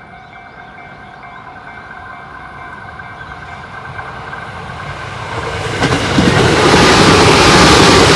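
Tobu 8000-series electric train approaching along the line, its rail and wheel noise growing steadily louder. About six seconds in it passes close by with a loud rumble and clatter of wheels on the rails.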